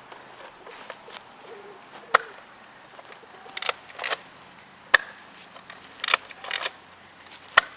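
Sharp clicks and knocks of Nerf blasters firing and foam darts striking, three sharp ones about two seconds in, near five seconds and near the end, with softer rustling bursts of movement between them.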